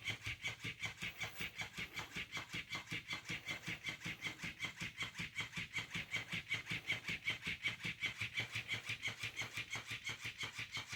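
Dog panting steadily and rapidly, about seven breaths a second.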